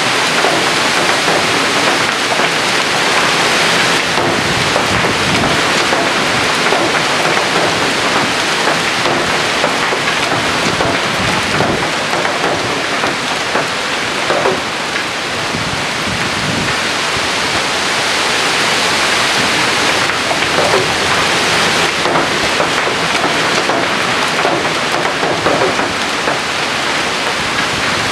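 Strong wind gusting: a loud, steady rushing noise that eases slightly about halfway through.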